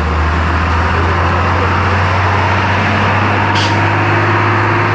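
A large vehicle's engine running close by, a steady low drone with road and traffic noise. A short high hiss comes about three and a half seconds in.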